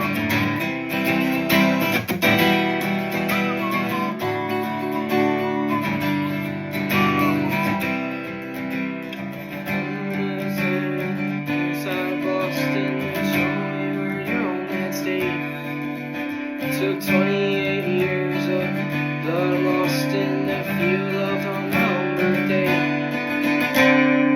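Acoustic guitar strummed with a pick, playing chords that ring steadily in an instrumental passage.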